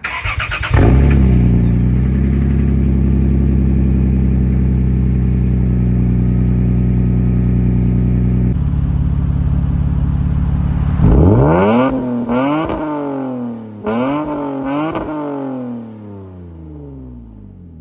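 Lexus GS300 running through an aftermarket MBRP cat-back exhaust with a custom TIG-welded mid pipe: the engine catches about a second in and idles steadily. Later it revs up sharply, blipped three times, then drops back to idle.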